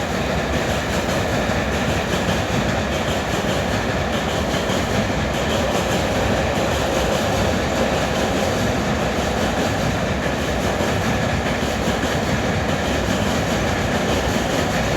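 Samta Express passenger train hauled by a WAP-7 electric locomotive, running on the track with a steady rumble of wheels on rail while it slowly gathers speed.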